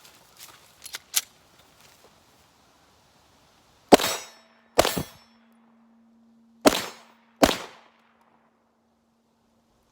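Four 9mm pistol shots from a Walther PPQ Q5 Match Steel Frame, in two quick pairs about two seconds apart, each with a brief ring of steel targets being hit. A few faint handling clicks come before the first shot.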